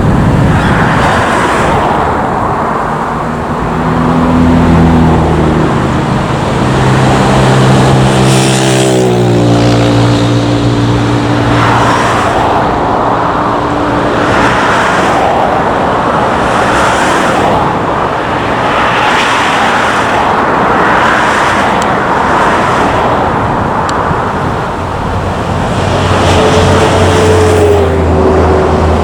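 Airbus A321 jet engines running loud and steady as the airliner comes in to land, with an engine tone that drops in pitch about nine seconds in as the aircraft passes.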